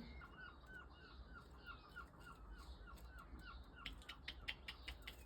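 A small bird calling faintly: a quick run of short, identical notes, about four a second. A few sharp clicks follow near the end.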